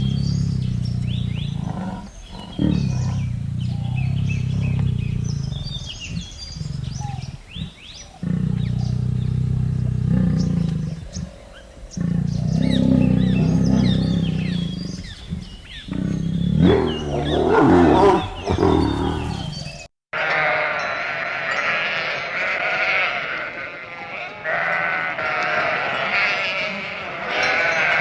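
Animal calls over a steady low rumble with bird chirps, including a loud pitched call shortly before an abrupt cut about twenty seconds in. After the cut, sheep bleat repeatedly.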